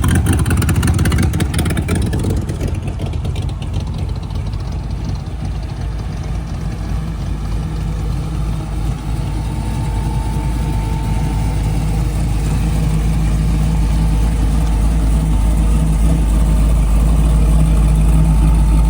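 A car engine fitted with an aftermarket stage 2 camshaft, starting right at the beginning and then idling with a steady low rumble that grows slightly louder.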